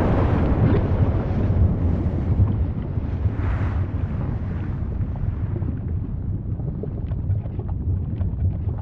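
Volcano rumbling steadily, with a swell about three and a half seconds in and scattered crackles over the second half.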